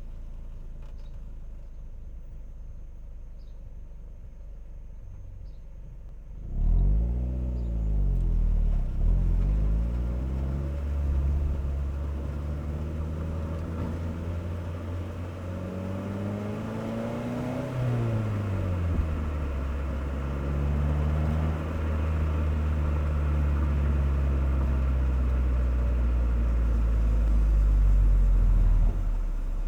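Car exhaust recorded at the rear bumper: a low idling rumble for about six seconds, then the engine pulls away louder, its note rising and falling as the car accelerates and eases off, settling into a steady low drone while cruising.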